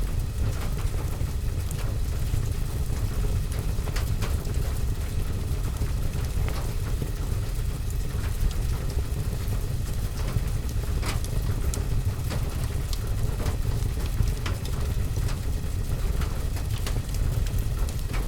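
Steady rain with a deep, constant low rumble, dotted with irregular sharp crackles and pops from a wood fire.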